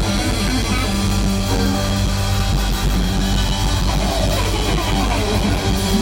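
Live band playing an upbeat rock number with electric guitar, bass and drum kit, and no singing.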